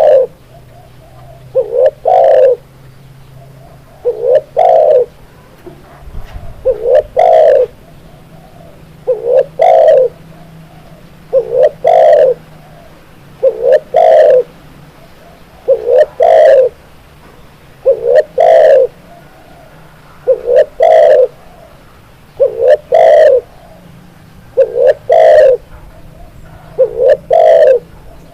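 Spotted dove (tekukur) cooing its repeated call: a short note or two then a longer coo, the phrase repeating about every two and a quarter seconds, about a dozen times.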